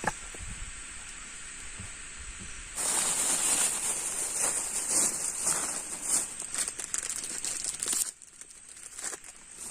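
Loud crinkling and rustling close to the microphone for about five seconds, starting about three seconds in, over a faint steady hiss.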